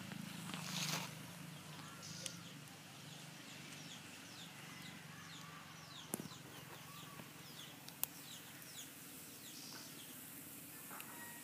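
Birds chirping repeatedly in short falling calls over a faint steady hum, with two sharp clicks about six and eight seconds in.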